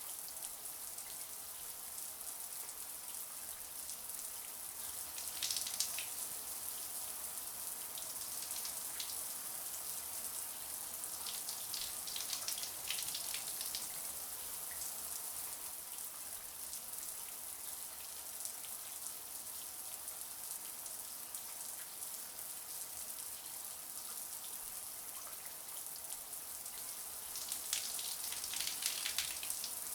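Shower water running steadily, a hissing spray with spells of louder spattering three times.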